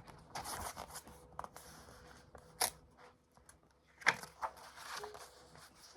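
Rustling and handling of a picture book's paper pages as they are turned, with a few short sharp clicks.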